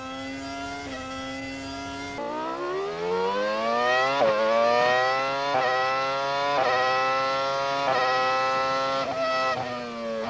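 Formula One V10 engine heard onboard, with a high wail. At first it holds a fairly steady note. After an edit about two seconds in, it pulls from low revs and climbs through the gears, with about five quick upshifts, each a short sharp drop in pitch before it rises again.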